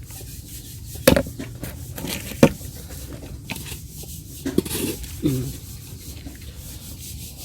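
Kitchen clatter: two sharp knocks of a utensil against cookware, a fainter click, then two short sounds that fall in pitch about five seconds in, over a steady low hum.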